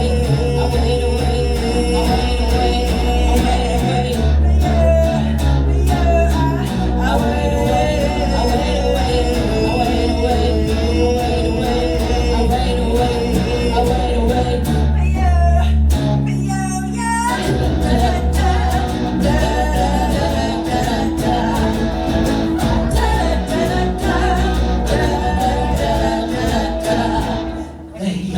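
Live rock band playing an instrumental stretch of a song, with a steady bass line, drums and guitar, and a lead line that bends in pitch near the middle.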